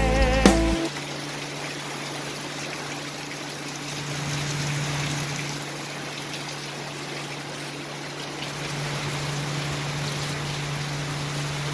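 Steady rain falling in a storm, an even hiss that swells a little around the middle, with a low steady hum underneath.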